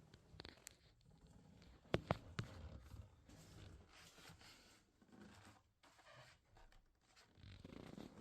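Faint rustling and handling noises, with two sharp clicks about two seconds in.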